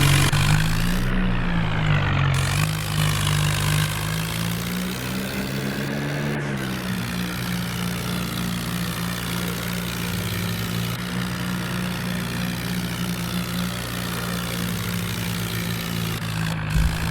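Swaraj tractor's diesel engine running steadily, its pitch rising and falling briefly twice as it is revved. A short thump near the end.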